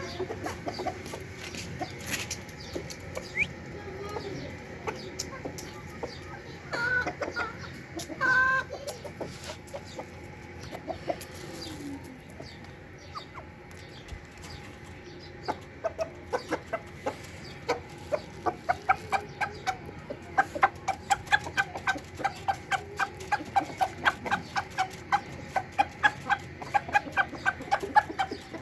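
Aseel chickens clucking. A few louder calls come about a third of the way in, and from about halfway a fast, even run of short ticks, about four a second, takes over.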